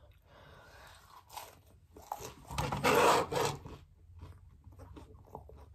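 A bite into a slice of pizza, crunching loudest a little over two seconds in, followed by quieter chewing with small clicks.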